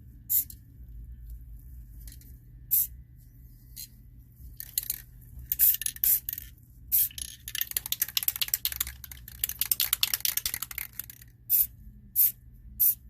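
Short hissing bursts from a can of Rust-Oleum high-heat spray paint, sprayed in light passes several times. In the middle, for about three seconds, comes a denser stretch of rapid clicking rattle mixed with hiss.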